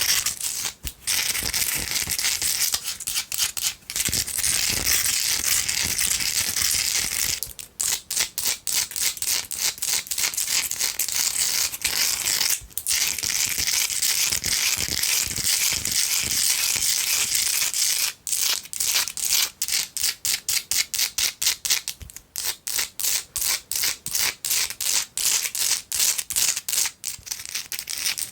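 Long fingernails scratching and tapping fast on a Himalayan salt rock: dense gritty scratching broken by a few short pauses, then a run of rapid separate taps in the second half.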